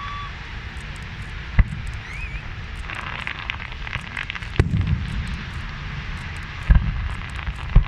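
Fireworks display: sharp bangs of shells bursting every couple of seconds over a steady low rumble, with a spell of dense crackling about three seconds in.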